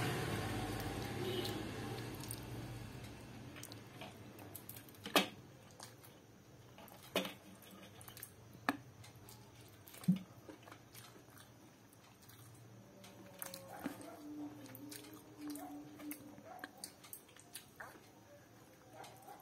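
Close-up eating sounds of a person eating chicken curry by hand: chewing and wet squishing, with a few sharp clicks spaced a couple of seconds apart in the first half. A rush of noise fades away over the first few seconds.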